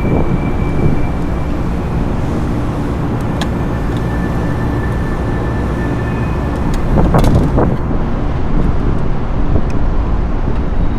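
Steady low mechanical rumble and hum with a few faint steady tones, swelling louder for about a second some seven seconds in.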